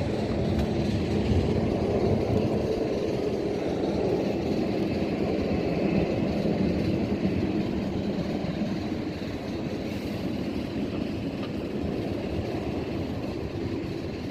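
Distant jet airliner engines: a steady rumble that eases slowly over the seconds.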